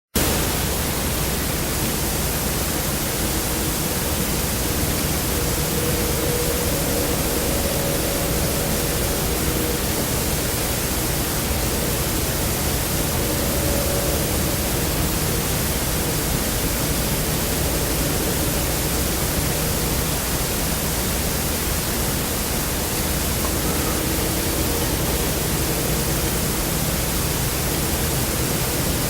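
A strange metallic whine: a faint, wavering whine that comes and goes under a steady, loud hiss.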